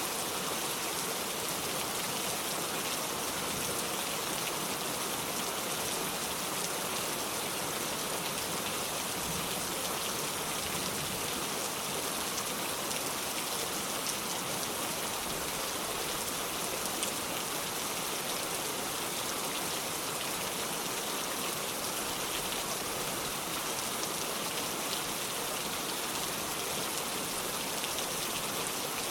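Heavy rain falling steadily on a metal roof: an even, unbroken wash of patter with scattered drop ticks, and no thunder.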